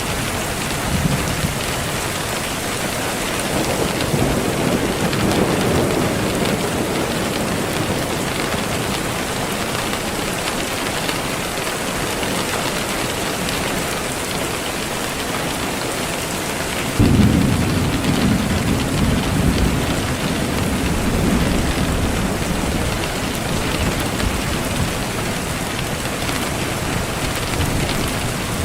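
Steady, even rain hiss with thunder. A soft low rumble swells about four seconds in. About seventeen seconds in, a sudden, louder thunderclap rolls on for several seconds.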